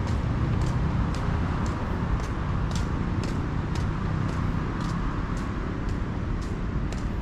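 Steady low rumble of street traffic, with light high ticks repeating about twice a second.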